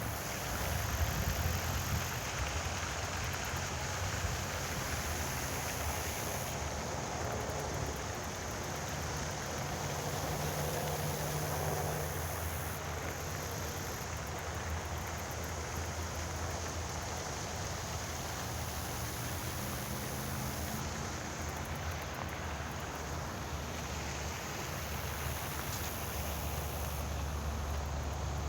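Steady rushing of flowing water, with low wind rumble on the microphone underneath.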